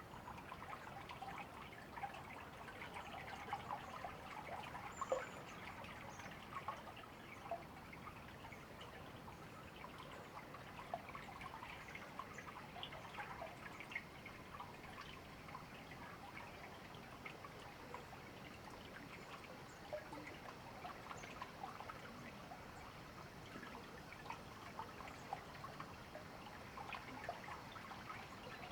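A shallow river or stream trickling and babbling steadily over stones, with a few faint, high, short bird chirps here and there.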